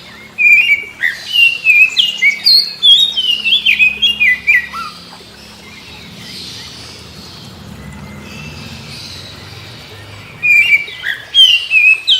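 Oriental magpie-robin (kacer) singing a fast run of loud, varied whistled notes that glide up and down. It falls quiet about five seconds in and starts again near the end.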